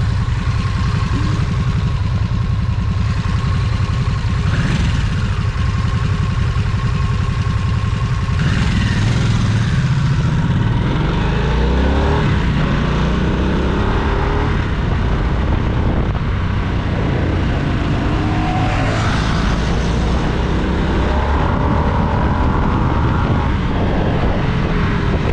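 Motorcycle engine running on the move, its revs rising and falling a few times, around nine seconds in and again near twenty seconds in.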